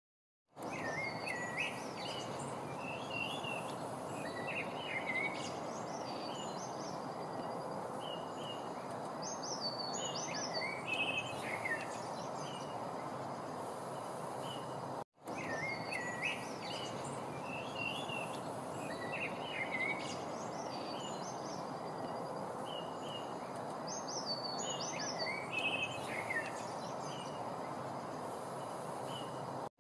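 Small birds chirping and singing in short, repeated phrases over a steady rushing background noise. The sound drops out briefly about halfway through, and the same stretch of birdsong then plays again.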